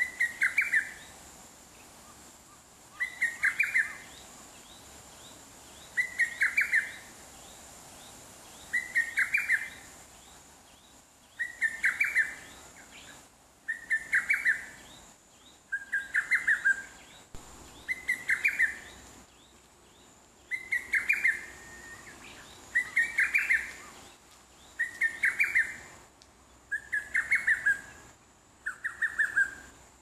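A songbird singing the same short phrase over and over, a quick run of notes about a second long, repeated every two to three seconds.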